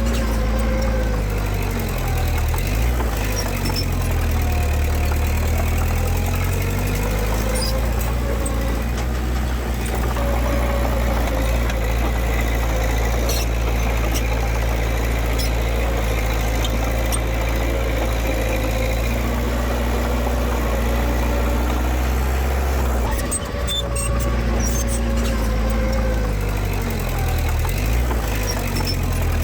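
Diesel engine of earthmoving machinery running steadily, its revs dipping and rising a few times, with a few short clicks and knocks.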